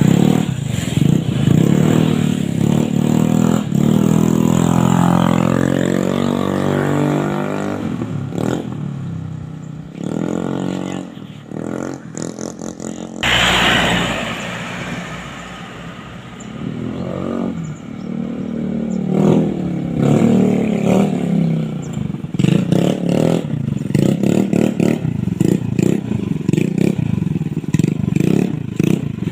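Honda Beat FI scooter's single-cylinder engine running through an aftermarket racing exhaust. The engine note falls as the scooter goes past about five seconds in, and again after a sudden loud burst about thirteen seconds in. It revs unevenly through the second half.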